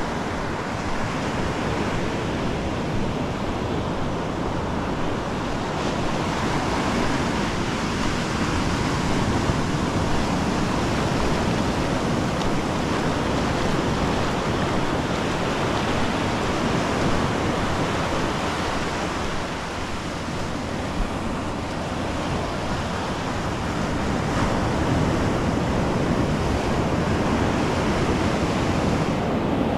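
Ocean surf breaking and washing up a sandy beach, a continuous rush that swells and eases, with some wind buffeting the microphone.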